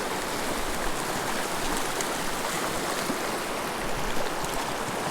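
Steady rushing of a small mountain river's flowing water.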